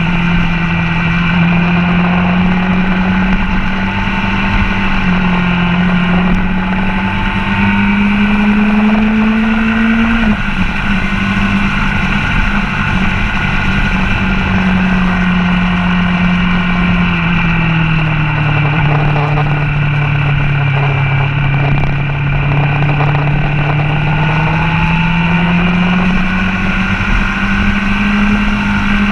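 Motorcycle engine at speed on a race track: the revs climb, drop suddenly about ten seconds in, sink slowly mid-way, then climb again, with wind rushing over the microphone.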